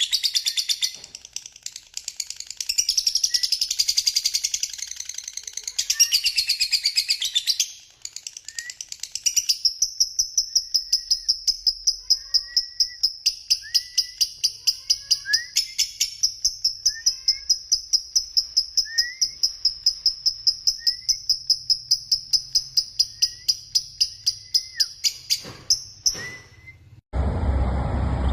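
Caged songbirds singing: varied high warbling phrases, then a long, fast, evenly pulsed high trill with short rising chirps about once a second. About a second before the end it cuts off abruptly into a loud rushing noise.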